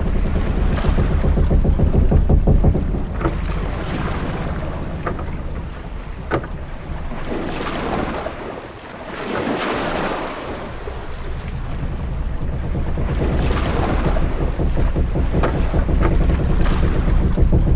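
Ambience of a sailing ship at sea: wind gusting with a heavy low rumble and waves washing against the hull, swelling and easing. A few short knocks stand out, the sharpest about six seconds in.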